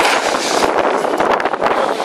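Strong wind buffeting the microphone: a loud, rough, gusty rushing noise that covers everything else.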